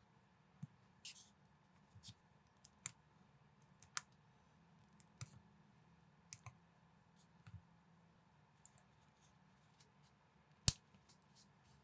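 Lego-compatible plastic building bricks clicking faintly as pieces are handled and pressed together: a dozen or so separate, irregular clicks, the sharpest near the end.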